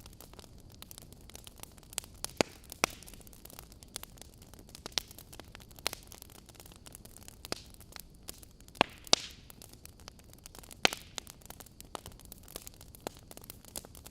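Fireplace crackling: irregular sharp pops and snaps over a soft steady hiss, the loudest pops a little past two seconds in, around nine seconds in and just before eleven seconds.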